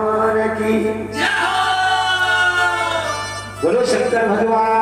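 A voice singing a devotional folk song in long held, gliding notes over a steady instrumental accompaniment; a new sung phrase begins about three and a half seconds in.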